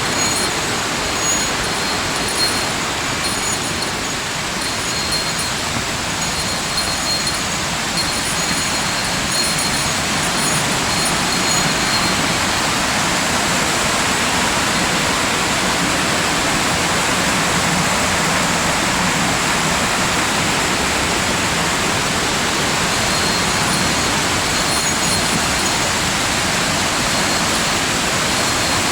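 Rushing water of a mountain gorge stream and its falls: a steady, loud rush without a break.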